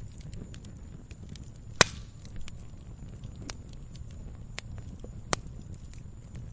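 Wood fire crackling: scattered sharp pops and snaps from the burning logs over a low steady rumble of the flames. The loudest pop comes about two seconds in, and another strong one a little past five seconds.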